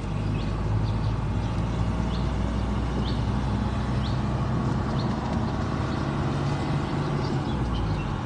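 A car driving along a road, with a steady low engine hum and road noise.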